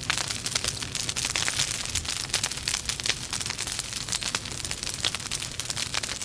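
Wood fire in a fireplace crackling: dense, irregular pops and snaps over a steady hiss, with a low rumble of the flames.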